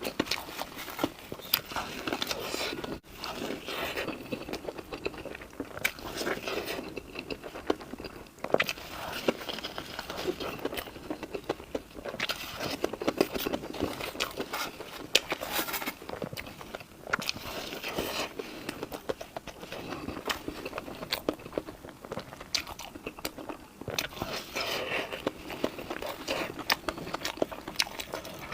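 Close-miked eating: biting into and chewing crunchy food, with many quick crackly crunches and clicks.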